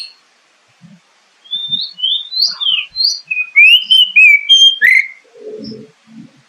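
Oriental magpie-robin (kacer) song: after a short pause, a quick run of clear whistled notes sliding up and down, followed by a brief low, rough sound near the end.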